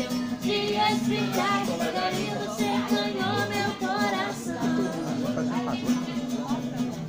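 Group singing a worship song, with melodic voices over a steady held accompaniment note.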